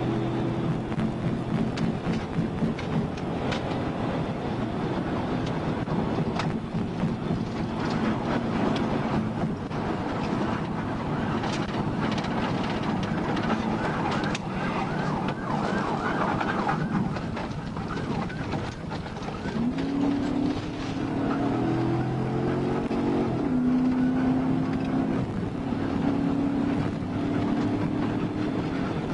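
Police car siren wailing and warbling over the engine and road noise of a patrol car driving fast in pursuit.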